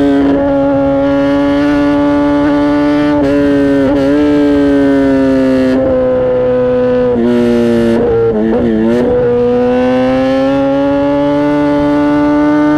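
Kawasaki ZX-10R inline-four engine and exhaust under way at high revs, a loud, steady, pitched howl. The pitch sags slowly, wobbles briefly about four seconds in and again around eight to nine seconds, then climbs steadily toward the end.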